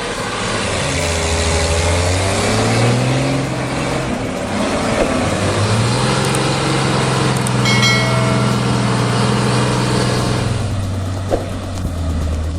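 A heavy vehicle's engine running and revving, its pitch rising and falling several times, with a brief high-pitched squeal about eight seconds in.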